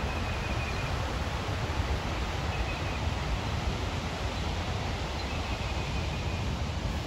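Waterfall on a river, its water rushing steadily as a constant even hiss over a low rumble.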